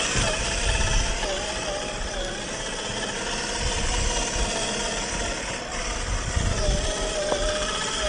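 Axial SCX10 III RC crawler driving, its 45T 540 brushed motor and gears giving a thin whine whose pitch wavers with the throttle. The whine is clearest at the start and again near the end, over an uneven low rumble.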